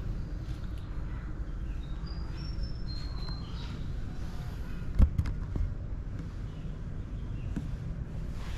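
A few short, high chirping bird notes over a steady low outdoor rumble, with one sharp knock about five seconds in.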